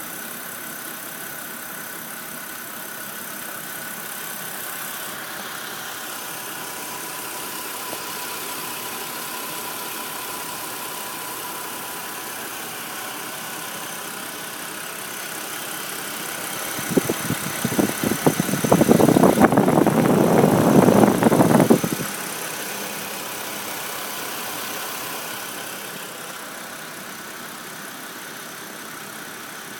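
BMW E90 330i's N52 straight-six engine idling warm with a ticking from the valvetrain, which the owner takes for the common N52 valve tick. A bit past halfway, a much louder burst of rapid knocking noise lasts about five seconds.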